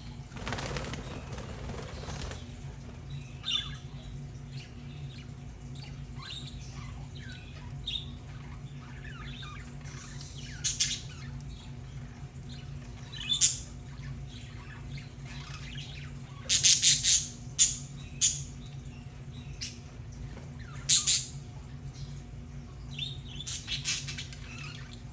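Budgerigars chirping and chattering in short, scattered bursts, with a brief flutter of wings about a second in, over a steady low hum.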